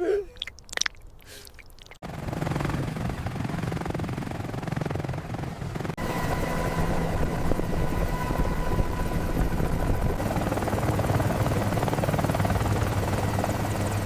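Helicopter running in flight: a steady loud rotor and engine noise sets in about two seconds in, joined by a steady turbine whine about six seconds in.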